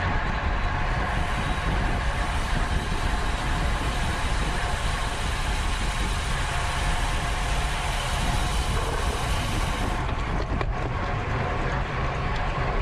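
Steady wind and road noise from a bicycle moving at race speed, the wind rushing over the microphone. The high hiss drops away about ten seconds in, followed by a single short click.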